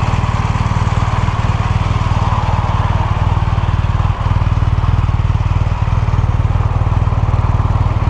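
BMW R1200R's flat-twin boxer engine idling steadily with a fast, even exhaust pulse, dipping briefly about four seconds in.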